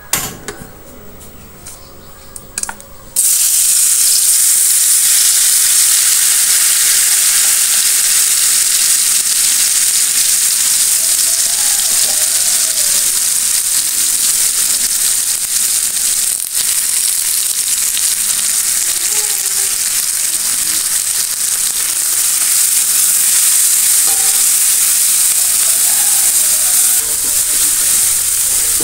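Ground chili paste for balado hits hot oil in a wok about three seconds in, setting off a sudden loud sizzle that keeps up steadily as the paste fries and is stirred with a spatula.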